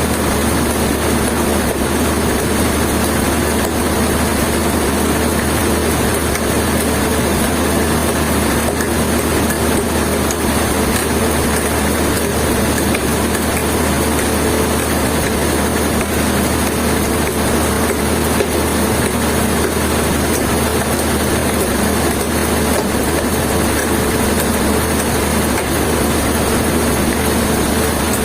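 Engine running steadily at an even speed, a constant drone that does not change.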